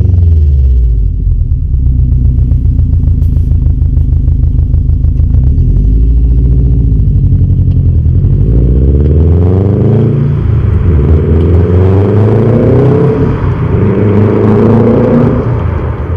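Subaru WRX STI's turbocharged 2.5-litre flat-four (EJ25) through a 3-inch turbo-back performance exhaust with a resonated centre section. It runs at a steady low note for several seconds, then the revs climb and drop three times.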